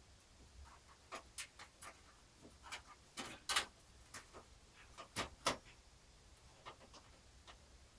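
Scattered light clicks and knocks of a graphics card and the metal PC case being handled as the card is fitted, the loudest about three and a half and five seconds in.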